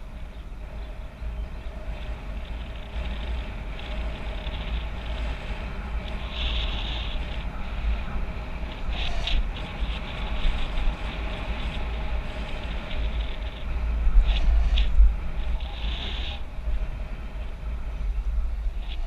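Wind buffeting the microphone of a bicycle-mounted action camera, over steady rolling noise from the bike, with a few short knocks and rattles along the way.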